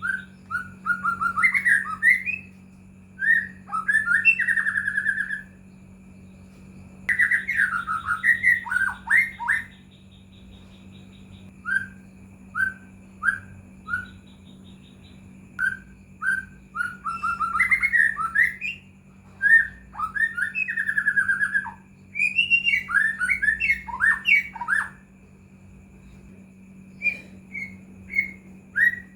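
White-rumped shama (murai batu) singing: bouts of quick, varied whistled phrases a few seconds long, broken by pauses and short runs of single repeated notes, over a steady low hum.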